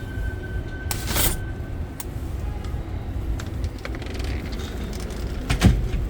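Steady low rumble of vehicle or city background noise, with a brief hiss about a second in and a few scattered clicks.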